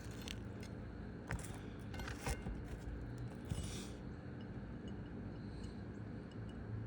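Metal roof snake scraping and clicking against asphalt shingles as a nail is worked in under a shingle: a few short clicks and scrapes in the first four seconds, then only faint high ticks over low background noise.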